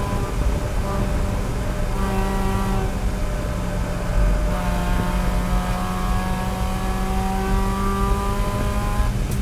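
Race car engine at high revs under throttle, heard from inside the cockpit. About four seconds in the note dips briefly with a low thump, then its pitch climbs slowly as the car accelerates.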